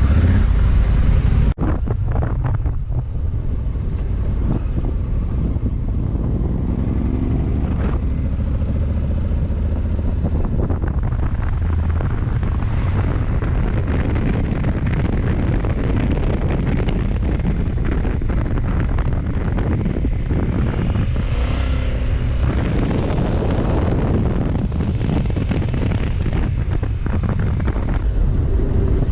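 Adventure motorcycle ridden along a trail, its parallel-twin engine running and changing pitch with the throttle, mostly buried under heavy wind noise on the microphone. There is a brief sharp break about a second and a half in.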